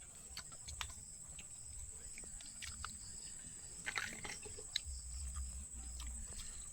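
Faint eating sounds: scattered small clicks and smacks of chewing.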